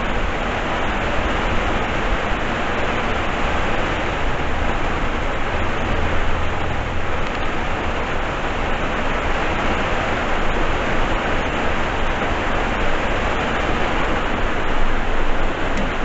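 Heavy rain pouring down steadily onto a flooded street, an even hiss with a low rumble beneath it.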